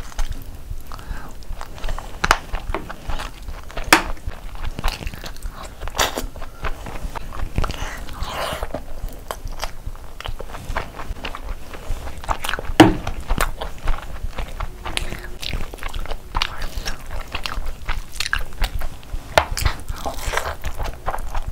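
Close-miked eating: steady chewing and biting with wet mouth sounds and small crunches, and one sharp, louder knock about 13 seconds in.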